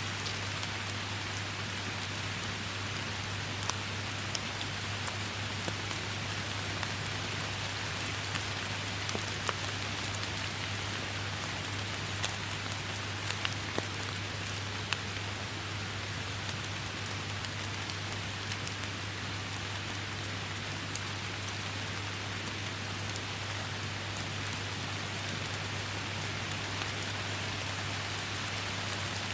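Steady rain falling in a forest, an even hiss of rain with scattered close drops making sharp ticks.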